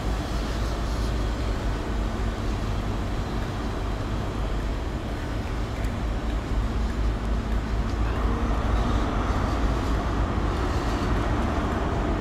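A diesel train running on the track beside the platform, with a steady low rumble that grows louder and fuller about eight seconds in.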